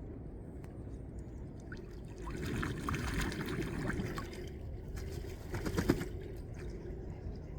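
Ducks bathing in the water: a flurry of wing-beating splashes a couple of seconds in, then a short, sharper splash a few seconds later, over a steady low background rumble.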